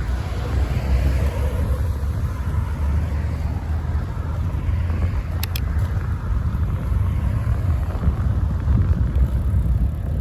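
Steady low rumble of wind and road noise picked up by a phone mounted on a moving bicycle, with passing traffic mixed in and a couple of sharp clicks about five and a half seconds in.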